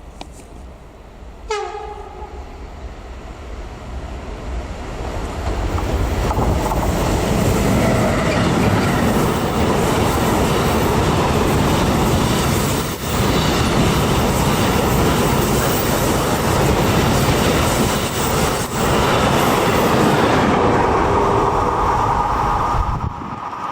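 A train passing through the station: a short horn blast about one and a half seconds in, then the train's rumble and wheel-on-rail noise building and running loud for about fifteen seconds before easing off near the end.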